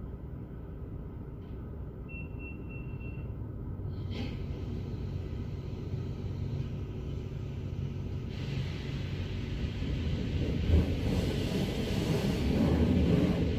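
Steady low rumble of a car on the move, slowly growing louder and fuller toward the end, with a short faint high beep about two seconds in.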